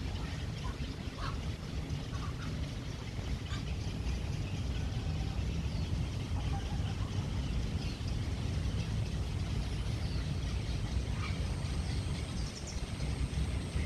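Scattered short bird calls and chirps over a steady low rumble.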